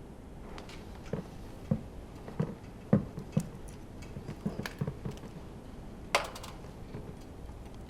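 Hand tools and metal engine parts clinking and knocking as the engine is being taken apart: about a dozen irregular clicks and knocks, the sharpest one about six seconds in.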